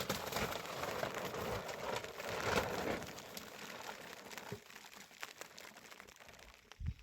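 Crinkling, rustling noise for about three seconds, then fading to scattered faint clicks and crackles, with a low thump near the end.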